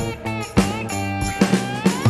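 Instrumental rock music: guitar over drums, with a guitar note bending upward near the end.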